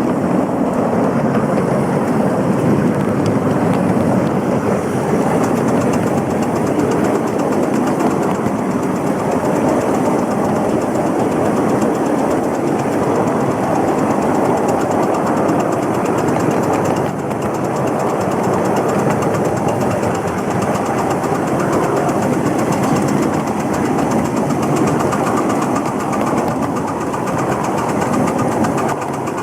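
Steady running noise of a moving train heard from inside the carriage, a constant rumble with a slight dip in loudness a little past halfway.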